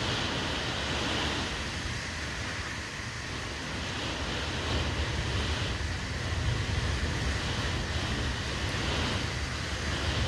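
Hurricane wind blowing in gusts, a steady rushing noise with a low rumble that swells and eases every few seconds.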